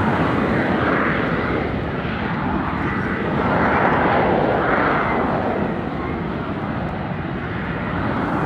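Jet engine of an F-35B fighter, a loud, steady rushing roar that swells and eases a little over the seconds, with a slowly shifting hollow sweep in its tone.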